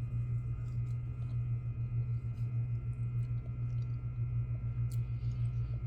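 A steady low hum, with faint soft clicks of someone chewing a bite of fried sweet potato.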